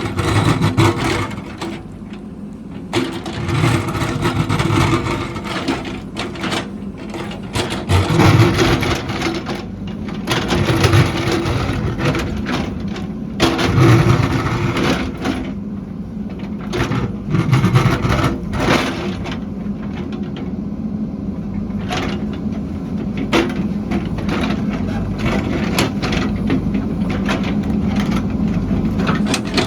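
Heavy construction machine's engine running and swelling in power every few seconds as it works under load, with scattered clanks and knocks.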